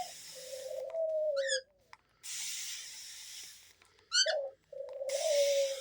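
Water misted from a sprayer in hissing bursts about a second and a half long, alternating with a dove's long, low coos that fall slightly in pitch. Two short rising squeaks come in between.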